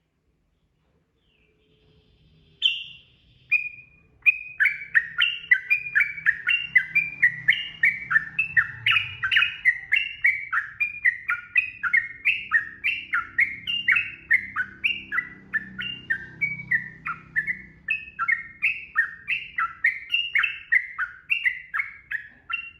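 Yellow-vented bulbul (trucukan) singing in a rapid, unbroken run of short falling notes, about three a second. Two single notes come a little before the run starts, about four seconds in.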